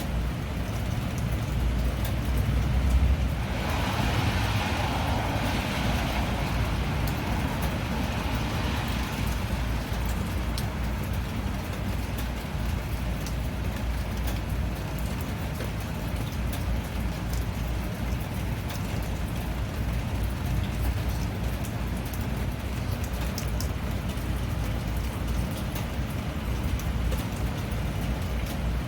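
Steady rain with a constant low rumble underneath. About four seconds in, a louder hiss swells up suddenly and dies away over the next several seconds.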